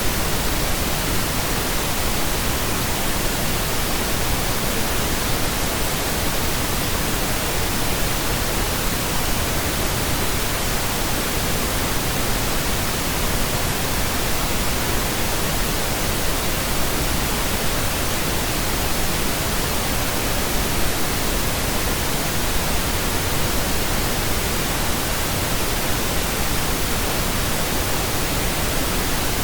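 Steady pink noise: an even hiss across the whole range, without change.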